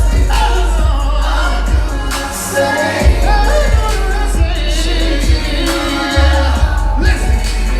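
Live R&B music: singing over a heavy bass line and a steady drum beat, played loud through a concert sound system.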